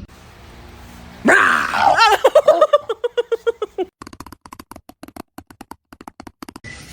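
A dog vocalising: a loud cry about a second in, then a rapid run of short pitched yelps, followed by a fast string of quieter clicks.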